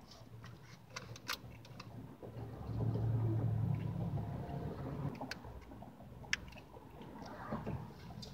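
Soft close-miked chewing with scattered wet mouth clicks while eating a frosted cupcake. A low steady hum comes in about three seconds in, lasts a couple of seconds, and is the loudest sound.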